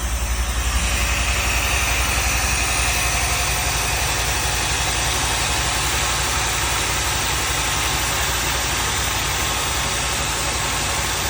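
Engine of a 1984 project car idling steadily on its first cold start in over a year, with the ignition timing heavily retarded; the owner suspects the distributor is off by one tooth. A hiss comes up about a second in.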